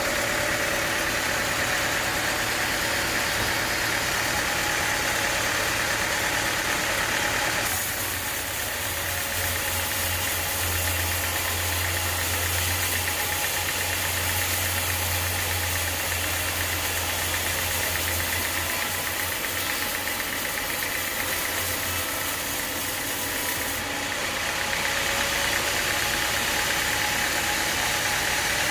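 Sawmill machinery running steadily. From about eight seconds in to about twenty-four seconds in the sound changes, with a strong low hum and a brighter hiss, then goes back to the earlier steady running.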